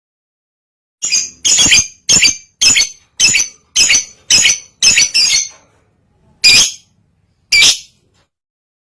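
Lovebird in breeding condition calling: short, sharp, high-pitched chirps, about nine in quick succession at roughly two a second, then two more spaced about a second apart.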